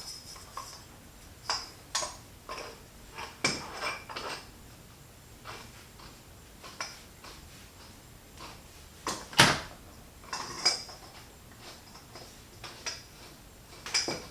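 Metal tool and saw parts being handled: the three-jaw puller and the freshly pulled pulley clinking and clanking in a scattered string of short knocks, the loudest a sharp knock about nine seconds in.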